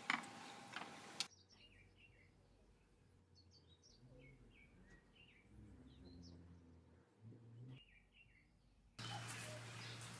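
Small birds chirping faintly, short quick calls in scattered clusters, over quiet background. A louder steady hiss with a few sharp clicks at the very start, and the hiss comes back near the end.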